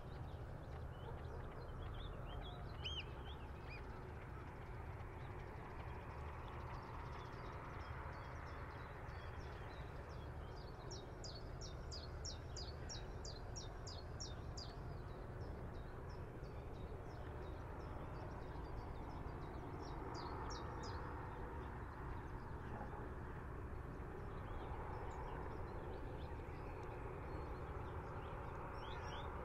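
Riverside ambience: a steady wash of water at a breakwater with a light breeze and a low rumble underneath. Birds call over it, with a quick run of high repeated chirps about ten seconds in and shorter runs of calls at the start and about twenty seconds in.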